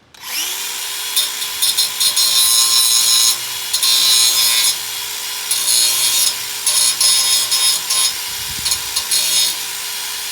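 Angle grinder spinning up, grinding on metal in uneven, louder bursts, and winding down near the end.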